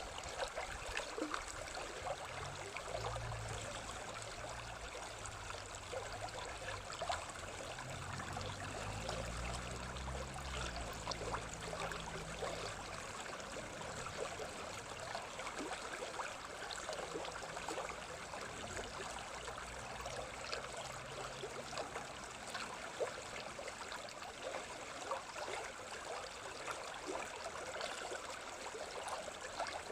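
A stream of running water babbling steadily, with many small splashing trickles.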